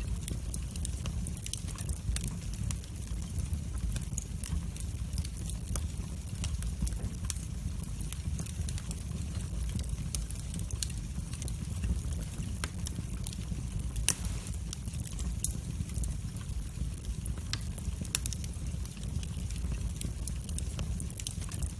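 Wood fire in a fireplace crackling, with many scattered sharp pops over a steady low rumble of the flames. One louder pop comes about two-thirds of the way through.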